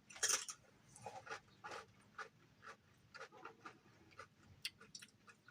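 Close-up chewing of crispy fried chicken: irregular crunches and wet mouth clicks, a few a second, with the loudest bite just after the start.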